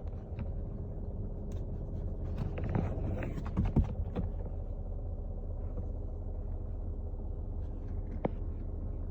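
Steady racket from the engine compartment of a 2014 Mercedes GL 350 (X166), with a low rumble and a steady hum. The noise runs only while the cabin fan is switched on, yet does not come from the cabin fan, which has already been replaced. A few knocks come about two and a half to four seconds in.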